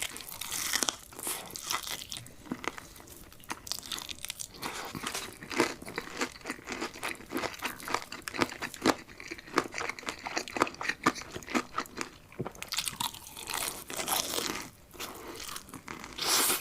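Close-up eating sounds: chicken being bitten and chewed, with many sharp, irregular crunching clicks and a few louder bursts of bites.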